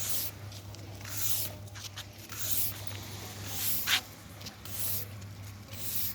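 Footsteps on the beach: short scuffing crunches at an even walking pace, about one every second, with one sharper click about four seconds in, over a steady low hum.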